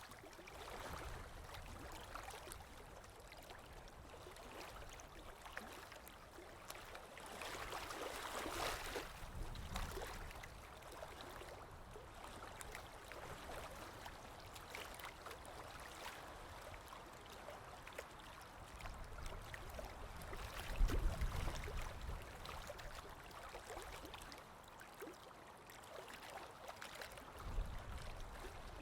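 Sea waves breaking and washing in: a hiss of moving water that swells and ebbs, with a deep surge of a breaking wave about two-thirds of the way through.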